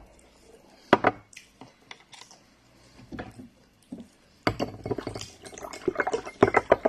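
Eating pounded yam with soup: a knock of a dish about a second in, scattered small clicks, then a busy run of wet, sticky eating sounds and dish clatter.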